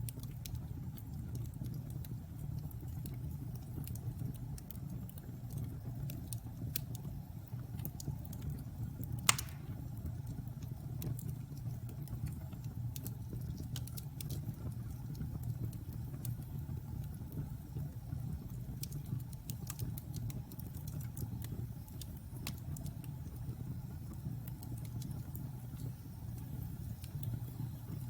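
Wood fire burning in a fireplace: a steady low rumble of flames with scattered crackles, and one loud pop about nine seconds in.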